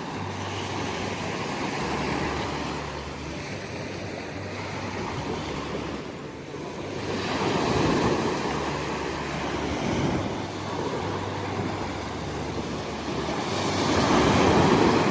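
Waves washing in, the rushing noise swelling about eight seconds in and again near the end, with wind on the microphone.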